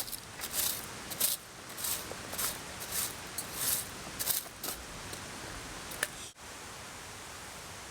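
Camping gear being handled and packed away: a run of short rustling, crinkling bursts, roughly two a second. About six seconds in they cut off suddenly, leaving only the steady rush of a mountain stream.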